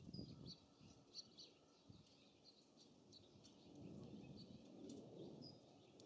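Faint, scattered short chirps of small songbirds, with low wind rumble that fades at the start and swells again about two-thirds of the way through.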